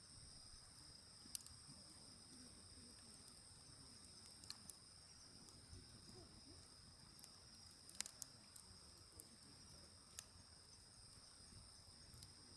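Faint crackle of a wood fire burning in a mesh fire pit, with a few sharp pops, the loudest about eight seconds in, over a steady high chirring of insects.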